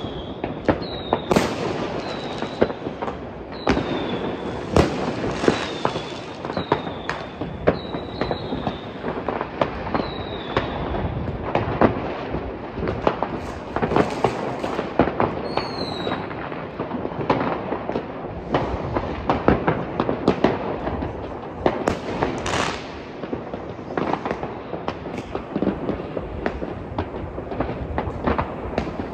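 Many fireworks and firecrackers going off at once: a dense, unbroken run of bangs and crackling, some sharp and near, most further off. In roughly the first half, short high whistles fall in pitch, about one a second.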